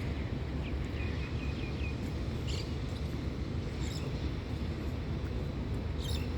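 Outdoor park ambience: a steady low rumble, with a bird giving a few short high chirps in quick succession about a second in and a few faint ticks later.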